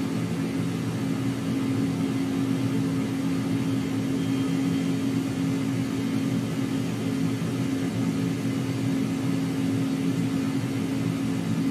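Steady engine hum: a constant low drone holding one pitch, with no rise or fall.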